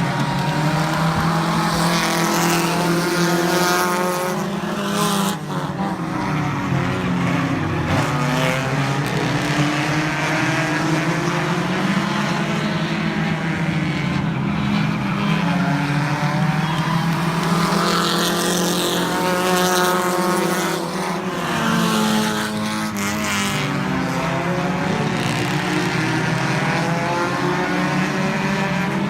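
Several stock car engines running hard on an oval track, their pitch rising and falling again and again as the cars accelerate down the straights and lift into the turns, passing by in waves.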